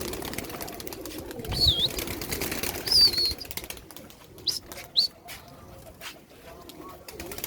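Domestic pigeons cooing in a loft, with wings flapping and clattering. Four short, high chirps cut through, about a second and a half, three, four and a half, and five seconds in.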